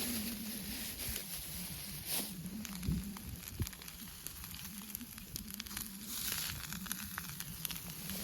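Food sizzling in a frying pan over a wood campfire, with short crackles and pops from the fire throughout and the sizzle briefly louder about six seconds in. A low wavering hum runs underneath.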